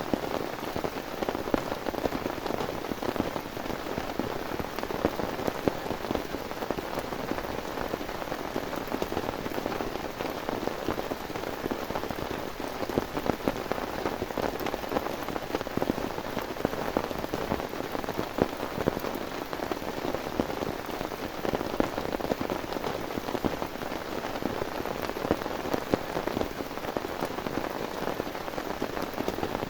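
Heavy rain, a steady, dense patter of drops striking a surface.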